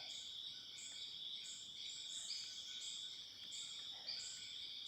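Rainforest insects calling together: a steady, high, shrill drone with a higher chirp pulsing over it a little more than once a second.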